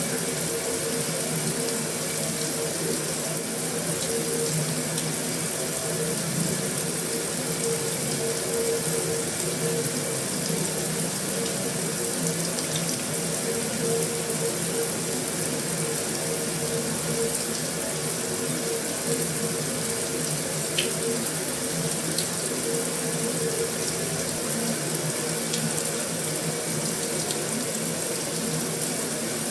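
Heavy rain falling steadily on a metal roof: a dense, even hiss with a few faint ticks.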